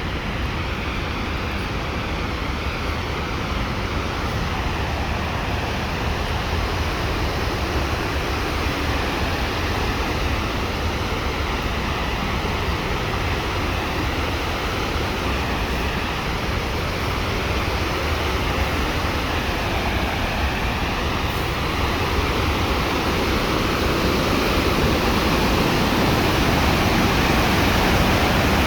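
Steady rushing of wind, with a low rumble of wind buffeting the microphone, growing slightly louder near the end.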